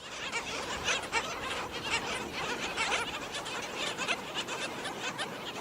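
Skimmers calling: a dense, steady chatter of many short calls overlapping, as from a flock or colony.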